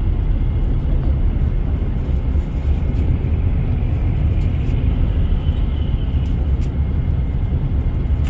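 Steady low rumble of a passenger van's engine and tyres, heard from inside the cabin while it drives along the road.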